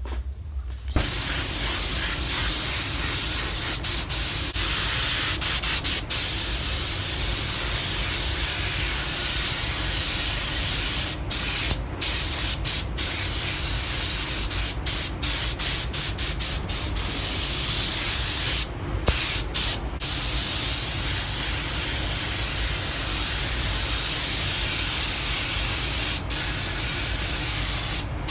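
Air-fed paint spray gun hissing as it sprays silver base coat onto a bumper repair, in long passes with brief breaks where the trigger is let off.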